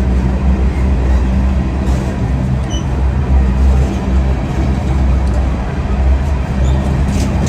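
Diesel freight locomotive's engine running with a steady, loud low rumble.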